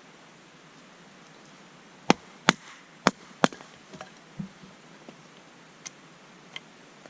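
Four sharp cracks in quick succession over about a second and a half, followed by several fainter ticks.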